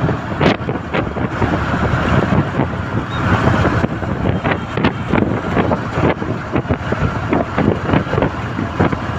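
Wind buffeting the microphone in irregular gusts over a steady engine rumble.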